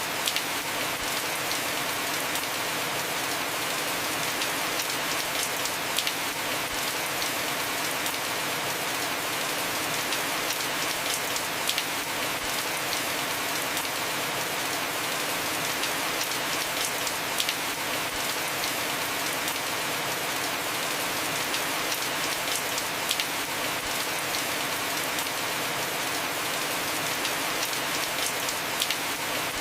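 Heavy rain falling steadily on a house roof, an even hiss of drops. A few sharper single drop taps stand out every few seconds.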